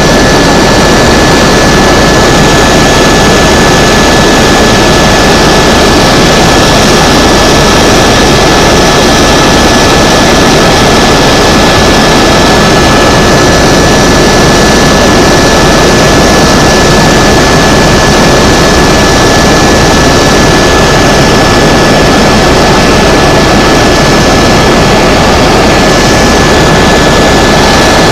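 Tour helicopter in flight: loud, steady engine and rotor noise with a thin, steady high whine.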